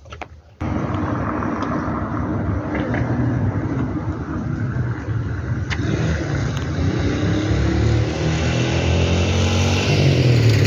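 A motor vehicle's engine running steadily, cutting in abruptly about half a second in and rising slightly in pitch toward the end.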